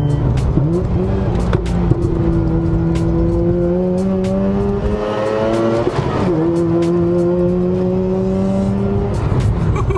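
Mazda RX-8 R3's twin-rotor Renesis rotary engine pulling under load, heard from inside the cabin. Its note climbs slowly for several seconds, breaks briefly about six seconds in, then holds steady.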